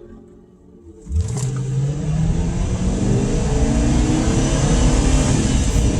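Car engine revved hard, starting suddenly about a second in and held at high revs, its pitch climbing and wavering, with a loud rushing hiss over it.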